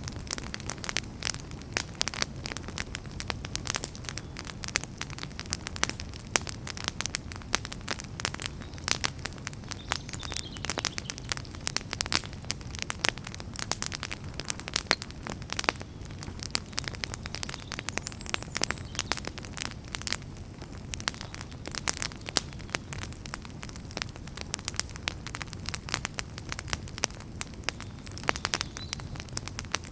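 Wood fire burning, with many irregular sharp crackles and pops over a low, steady rumble of flame.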